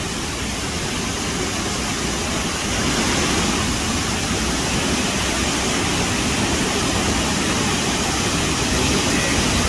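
Waterfall's falling water rushing steadily, a little louder from about three seconds in.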